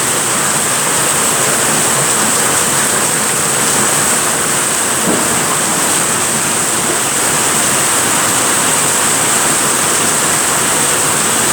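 Heavy rain pouring steadily on a roof, a dense even hiss.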